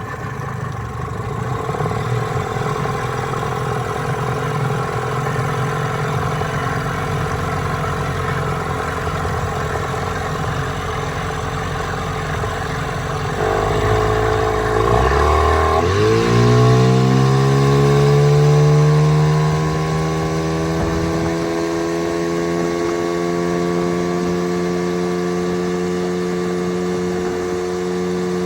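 1995 Evinrude 15 hp two-stroke outboard motor running at a steady idle, then throttled up about halfway through: its pitch climbs over a few seconds and settles into a steady, higher running speed.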